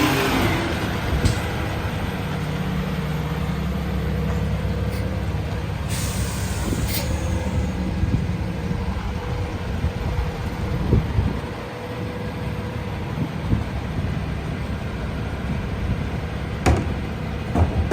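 Freightliner EconicSD garbage truck with a McNeilus rear-loader body running steadily, its engine and packer hydraulics droning with a held low tone. A few short, sharp sounds stand out: one about a second in, a pair about six to seven seconds in, and one near the end.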